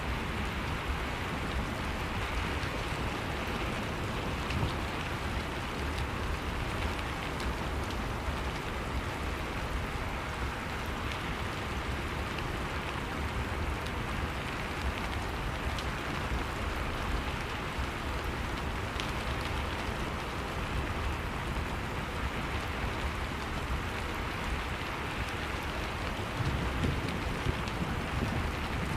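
Steady rainfall from a rain-and-thunderstorm ambience track, with a low rumble underneath.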